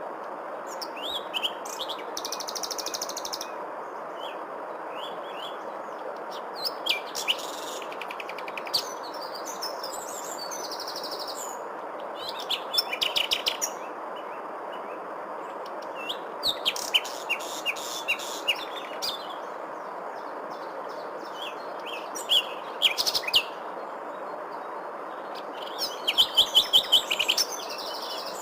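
Several songbirds chirping and singing in short bursts over a steady rushing background. A fast run of sharp repeated notes comes near the end.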